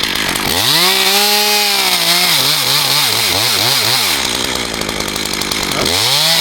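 Two-stroke chainsaw revving: it climbs to high speed and holds about a second, drops back, then is blipped up and down several times in quick succession before revving up again near the end.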